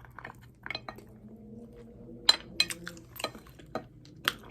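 Light clicks and clinks of tableware and food containers being handled, about a dozen scattered hits, the loudest a sharp knock a little past two seconds in, over a faint steady low hum.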